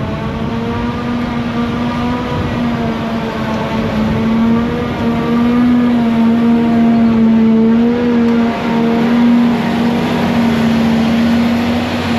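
Claas Jaguar 1200 self-propelled forage harvester, powered by a 12-cylinder diesel, running under load while chopping triticale. It gives a loud steady hum that wavers slightly in pitch over a rushing noise of crop going through the machine.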